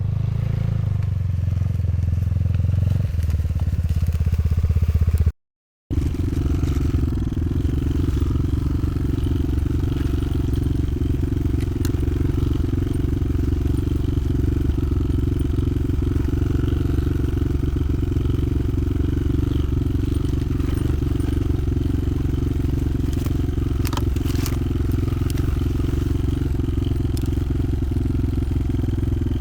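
Motoland XR 300 Lite enduro motorcycle engine running under way. The sound cuts out completely for about half a second about five seconds in. After that the engine holds a steady, unchanging note.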